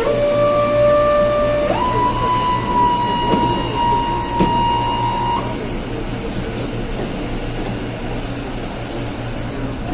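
Distorted door-closing warning tone of a Mexico City Metro NC-82 train: a lower tone that steps up to a higher one, held for a few seconds and then cut off. Steady train rumble runs underneath, with short hisses later.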